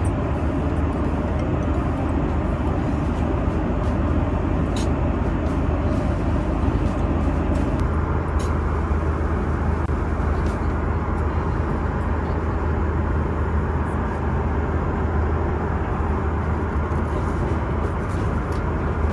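Steady airliner cabin noise in flight: an unbroken rushing drone of engines and airflow, heaviest in the low range, with a few faint clicks.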